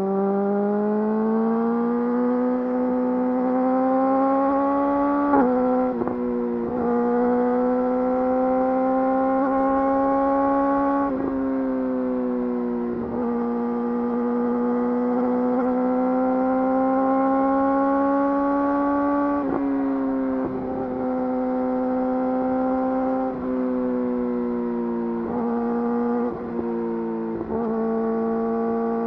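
Yamaha YZF-R6's inline-four engine breathing through an Akrapovič full exhaust system, heard from the moving bike. The revs climb slowly and hold, then drop sharply a few times, with short dips as the throttle is rolled off near the end.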